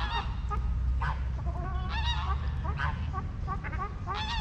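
A flock of waterfowl honking and calling, many short calls overlapping in quick succession, over a steady low rumble.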